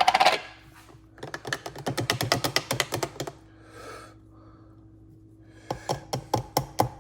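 Quick runs of light clicks, about ten a second, in two bursts: a spoon clinking and scraping against a cup.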